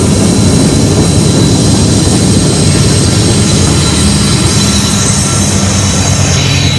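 Union Pacific manifest freight train rolling past at close range: a loud, steady rumble of wheels on rail with a thin steady high tone over it, easing slightly near the end.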